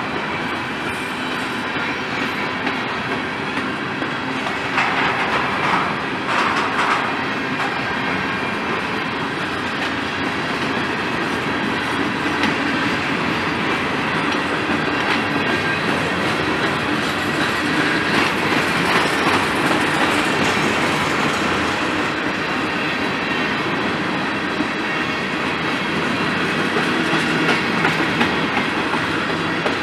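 Freight train's covered hopper cars rolling past, steel wheels clicking over the rail joints in a steady clickety-clack, with louder, brighter stretches about five to seven seconds in and again around eighteen to twenty-one seconds in.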